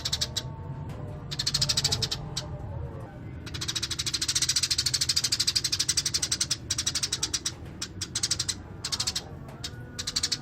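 Eurasian tree sparrow chirping in rapid runs of short, high chirps, in several bursts with one long run of about three seconds in the middle.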